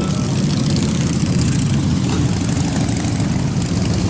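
A motorcycle engine idling with a steady low rumble.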